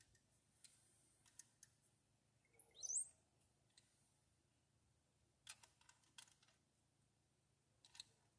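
Near silence with a few faint, scattered clicks of hand tools on metal, and one short rising squeak about three seconds in.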